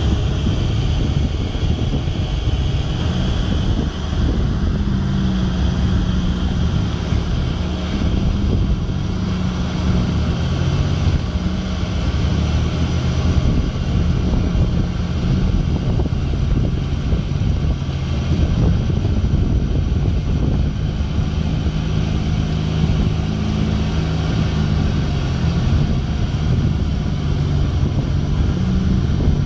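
Mitsubishi Pajero's engine running loudly under load, its revs rising and falling, while the 4x4 is stuck axle-deep in mud.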